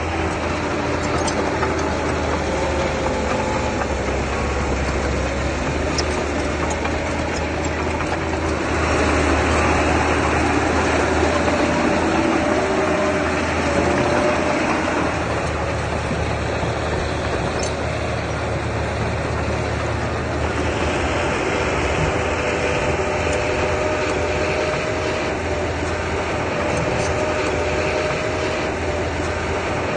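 Diesel engine of earthmoving machinery running steadily. It grows louder for several seconds from about nine seconds in, then settles back.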